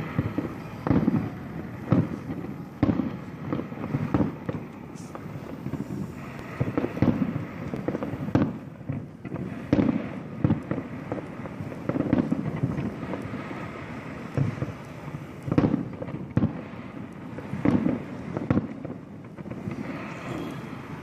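Fireworks display: aerial shells bursting in an irregular string of sharp bangs, about one or two a second, with crackling between them.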